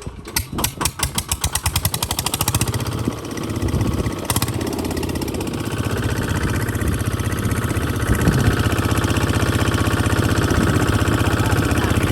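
Kubota RT140 DI single-cylinder diesel engine picking up speed: separate chugs come faster and faster over the first few seconds, then settle into a steady run that gets a little louder about eight seconds in.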